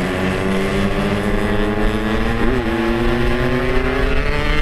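Yamaha RX-King 135 cc two-stroke motorcycle engine running on the road, its pitch climbing slowly and steadily as the bike accelerates, with a brief wobble in pitch about two and a half seconds in.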